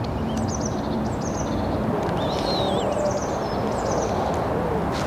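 Small birds chirping several times with short, high, curving calls over a steady low outdoor rushing noise.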